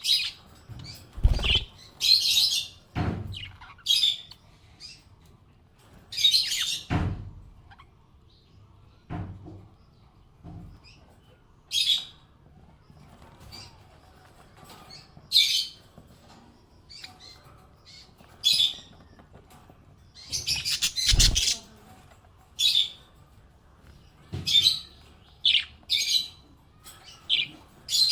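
Small pet parrots chirping and tweeting in short, high bursts every second or two, with a few low thumps among the calls.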